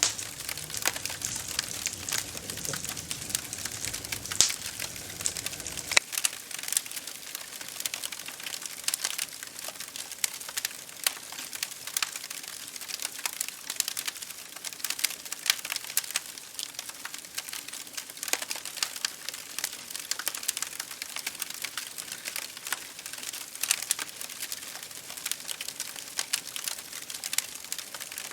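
Wood campfire crackling: a steady stream of small irregular snaps and pops, with a sharper pop every so often.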